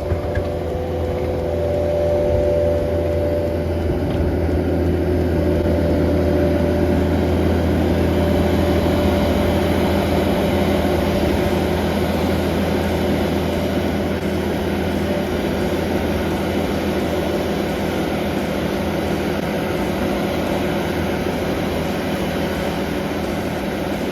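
New Holland skid steer's diesel engine running steadily while it plows and levels snow. It grows louder about two seconds in, then eases a little in the second half.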